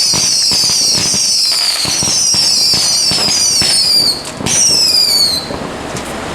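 Fireworks going off in a rapid string: several overlapping high whistles, each falling in pitch, over dense crackling pops. The whistles stop about five seconds in, leaving scattered pops.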